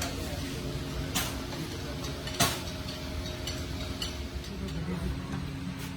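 Two sharp knocks of tools against engine parts, a little over a second apart and the second louder, with a few lighter ticks over a steady low workshop hum.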